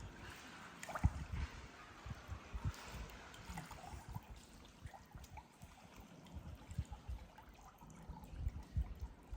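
Faint water trickling and splashing, with scattered soft low knocks.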